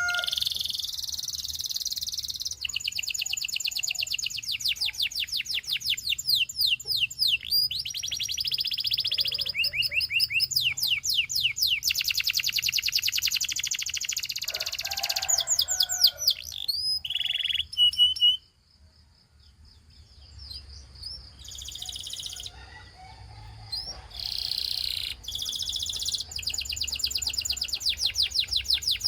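Gloster canary singing: long phrases of fast, high-pitched repeated trills and rolls, with a short pause about two-thirds of the way through before the song starts again.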